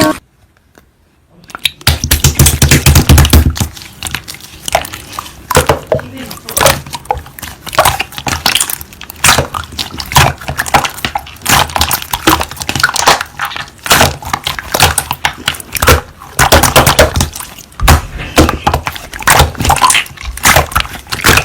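Slime being squeezed and poked by hand, giving a dense, irregular run of crackling clicks and pops; it starts after about a second and a half of silence.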